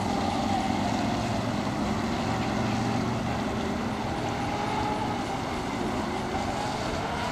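Twin electric RC racing catamaran with two Castle 1520 brushless motors running out on the water: a faint, steady motor whine that wavers a little in pitch over a steady background rush.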